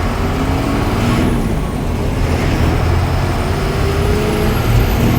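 Ashok Leyland diesel bus driving on a test run after its differential crown and pinion were reset: a steady, loud engine and road rumble, with the engine pitch rising slowly as it gathers speed.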